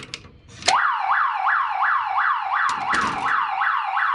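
Electronic security alarm siren set off by a door sensor: a fast, repeating rising whoop, about three a second, starting under a second in after a couple of clicks.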